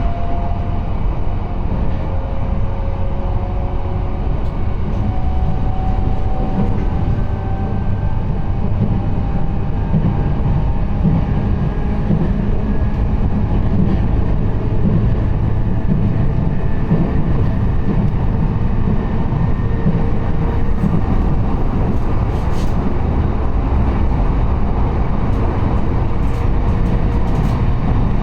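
Steady rumble of a moving train heard from inside the carriage, with a faint motor whine slowly climbing in pitch as the train gathers speed.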